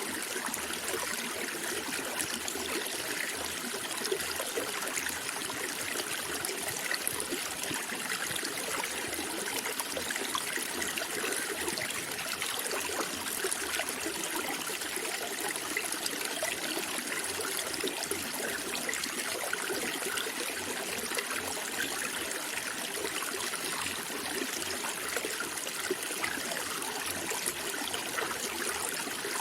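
Water flowing and trickling steadily, like a small stream, with an even splashing hiss and no breaks.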